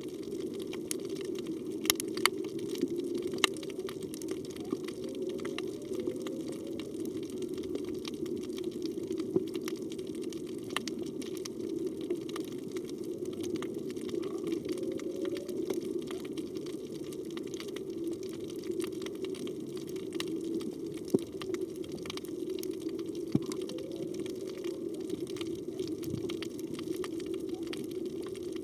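Underwater sound: a steady low rush of water with scattered sharp clicks, and a few faint rising calls of a humpback whale.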